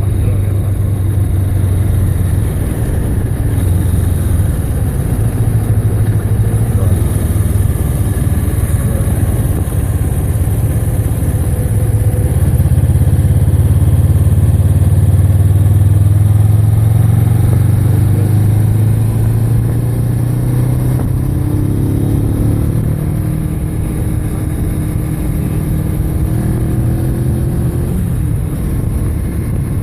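Motorcycle engine running steadily while riding, over wind and road noise. The engine note swells and rises in pitch around the middle, then eases back.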